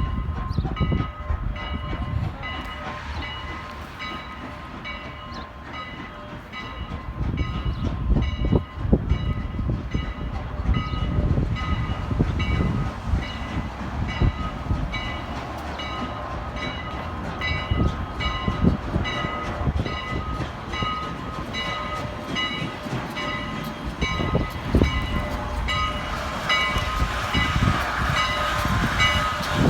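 Strasburg Rail Road No. 89 steam locomotive and its train running, a rumble with irregular heavy thumps. A bell rings steadily over it, about two strokes a second, and the rumble grows louder near the end.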